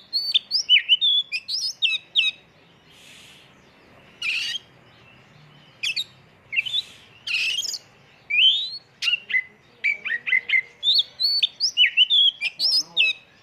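Oriental magpie-robin (kacer) singing a fast, varied song of sharp whistled notes and quick pitch sweeps, mixed with several short harsh rasping notes. The song is packed with mimicked phrases, the 'isian' that keepers prize.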